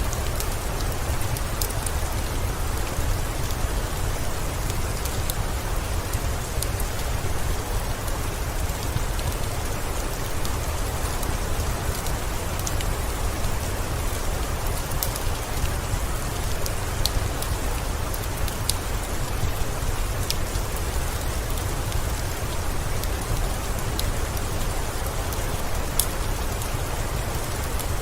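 Steady rainfall with a deep low rumble underneath and scattered sharp ticks throughout.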